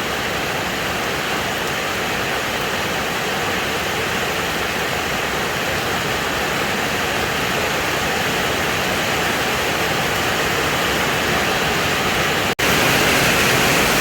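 Heavy storm rain pouring down in a steady, dense hiss. Near the end it cuts out for an instant and comes back a little louder.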